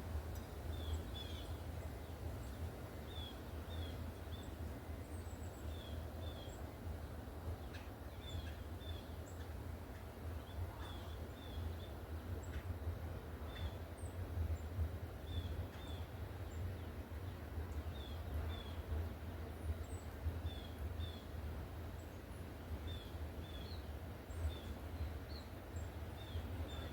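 Small songbirds at a feeder calling with short, high chip notes, often in pairs, every second or so, over a steady low rumble.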